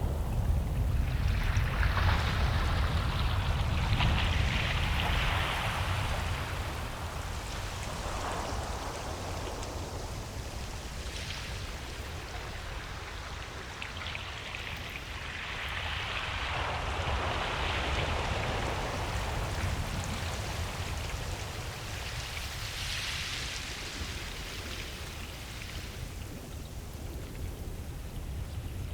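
Ocean surf on a beach: the hiss of breaking and washing waves swells and fades every few seconds over a steady low rumble.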